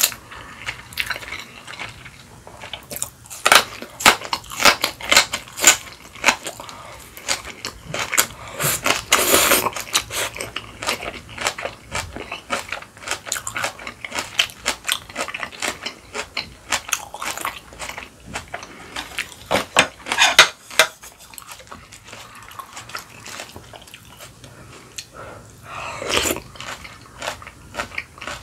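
Crunching and chewing of kimchi: crisp, wet crunches in quick runs, coming in several bouts.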